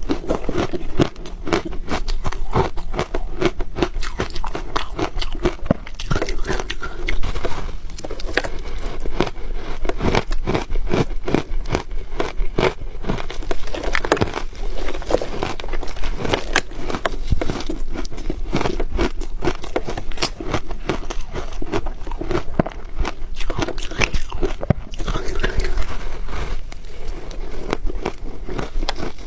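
Ice being bitten and chewed close to the microphone: a continuous run of sharp, crackling crunches with no pauses.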